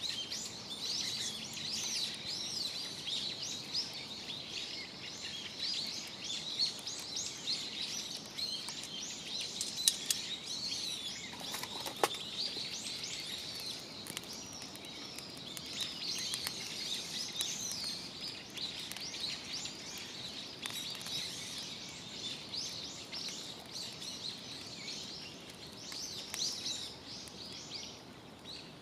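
Many small birds chirping and singing at once, a dense run of quick overlapping calls throughout, with a few sharp clicks or snaps standing out around the middle.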